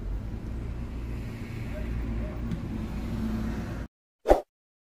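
Low, steady engine rumble of a Renault Dokker heard from inside its cabin, cutting off abruptly just before four seconds in. About half a second later comes one short, loud pop.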